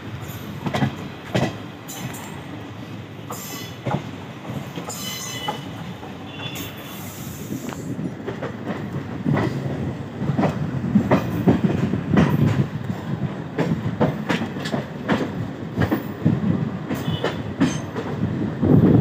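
Passenger train running on the rails, heard from an open coach doorway: steady rumble with wheels clicking over rail joints and brief high wheel squeals about five to seven seconds in. The running noise grows louder in the second half.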